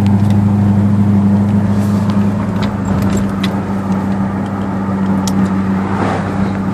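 Turbocharged 6.1-litre Hemi V8 of a 2009 Jeep Grand Cherokee SRT8 running steadily under way, a low, even drone with no rise or fall in pitch. A few light ticks sound over it.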